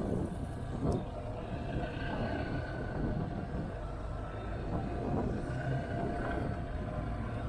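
Motorcycle engine running at riding speed, mixed with wind rushing over the microphone.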